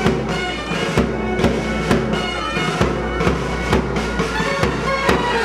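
Live band music: a held, droning wind-instrument melody over a steady low drone, with a drum beat about twice a second.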